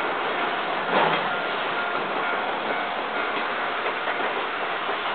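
Train of the SL Mooka steam service rolling past, its wheels clattering over the rail joints with scattered sharp clicks, the sound slowly fading.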